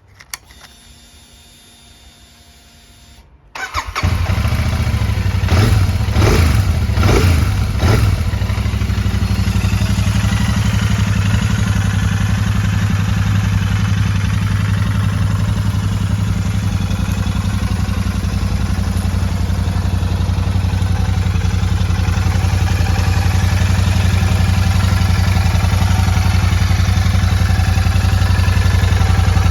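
Royal Enfield Super Meteor 650's parallel-twin engine starting about four seconds in, revved a few times, then idling steadily.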